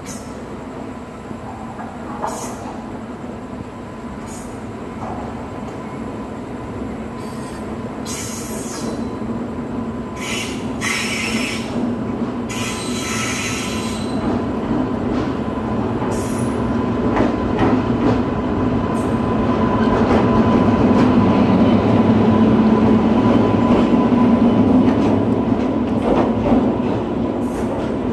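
Train running on rails and getting steadily louder over about twenty seconds, with short high-pitched wheel squeals and screeches scattered through the first half.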